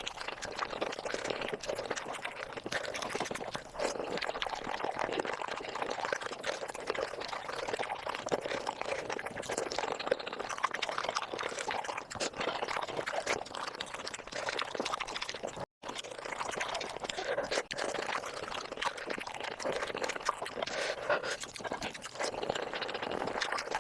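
Sped-up close-miked eating of chicken feet: a dense, unbroken stream of wet chewing, sucking and lip-smacking clicks. It breaks off for an instant about two-thirds of the way through, then carries on.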